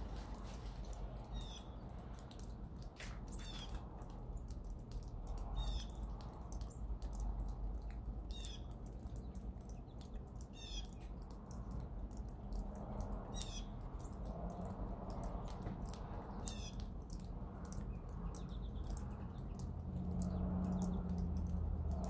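A small songbird calling over and over, one short high note about every two to three seconds, over a steady low outdoor rumble.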